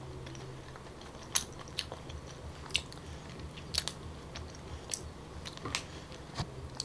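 Close-up mouth sounds of a person chewing soft, sticky Musang King durian flesh, with faint scattered wet clicks and smacks about once a second.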